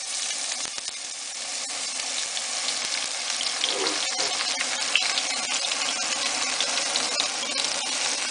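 Cubed aubergine frying in hot oil in a pan: a steady sizzling hiss that grows louder over the first few seconds as more pieces go in, with scattered crackles and pops.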